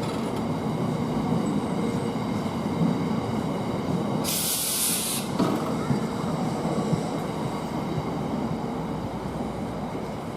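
Freightliner Class 66 diesel freight train at the station, its EMD two-stroke V12 engine and wagons giving a steady rumble. About four seconds in, a loud burst of air hiss lasts about a second.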